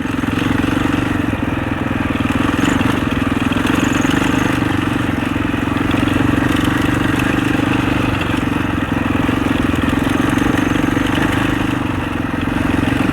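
Husaberg 650 four-stroke single-cylinder enduro dirt bike engine running steadily while riding along a trail, at a fairly even pitch without big revs.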